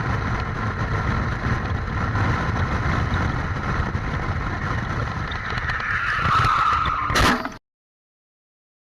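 Motorcycle at high speed, a steady rush of engine and road noise. About six seconds in a tyre skid builds under hard braking, then a sharp impact as the bike hits the stopping car, and the sound cuts off abruptly.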